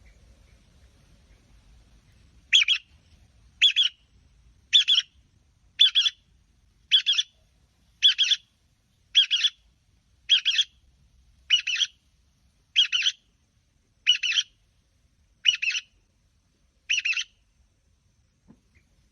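A bird call, short and chirped, repeated thirteen times at an even pace a little over a second apart, each call much like the last.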